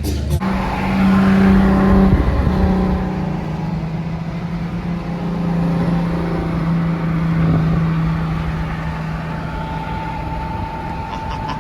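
Ferrari engine running at a raised idle for the first couple of seconds, then settling to a lower, steady idle that fades a little toward the end.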